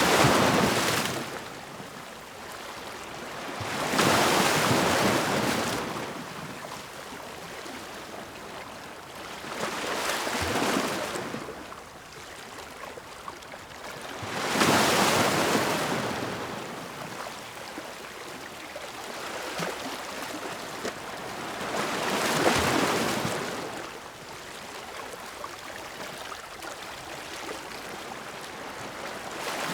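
Ocean waves surging and breaking in repeated swells every four to eight seconds, each rising to a loud hiss and ebbing to a softer wash between.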